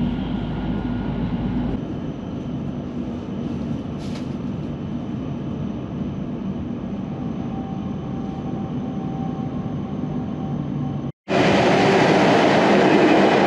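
Train running: a steady rumble of wheels and car body on the rails. About two seconds in the sound changes, as at a cut, and after a brief dropout near the end it comes back louder and hissier.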